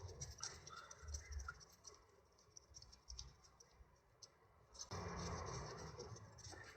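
Faint scratching and light clicks of hands and tools working at a gear-shift actuator's sensors and wiring, with a quieter stretch in the middle and a soft rustle later on.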